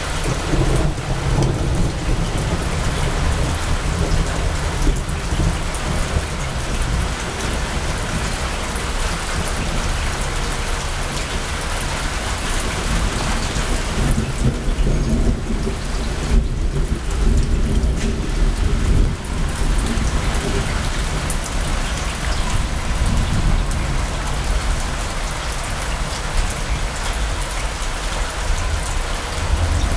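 Heavy rain pouring down in a thunderstorm, with low thunder rumbling under it, strongest midway through.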